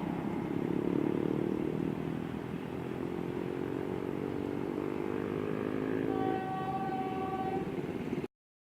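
Passenger train running, its engine note slowly rising, with the train horn sounding for about a second and a half near the end. The sound cuts off suddenly just before the end.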